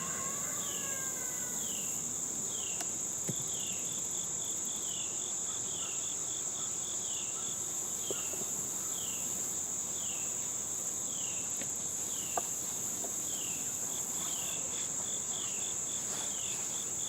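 Insects trilling steadily at a high pitch, with a lower short chirp repeating about once a second and a few faint clicks.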